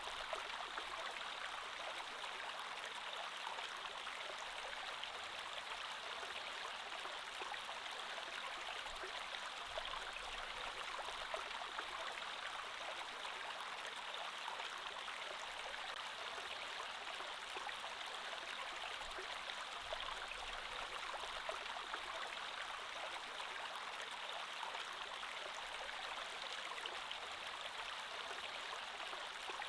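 Creek water flowing and babbling steadily over stones, an even rushing wash with no breaks.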